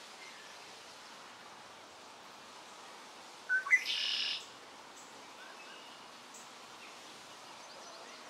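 A bird call about three and a half seconds in: two quick chirps followed by a short rasping note under a second long, over a steady background hiss.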